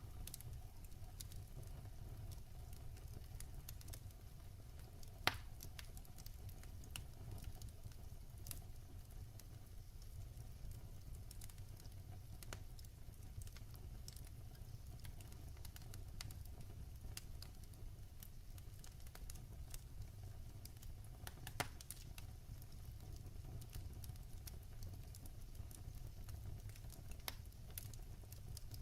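Wood fire burning in a fireplace, crackling with many small scattered pops and two louder pops, about five seconds in and about twenty-two seconds in, over a steady low rumble.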